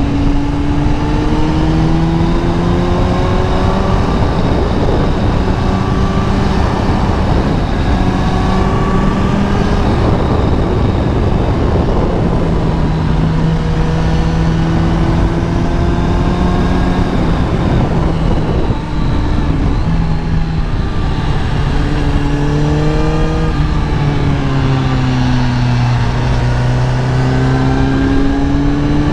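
Kawasaki ZX-10R inline-four engine pulling hard: its pitch climbs, drops briefly at each gear change and climbs again, with a slower fall and rise near the end as the rider slows and speeds up. Heavy wind rush at riding speed runs under it.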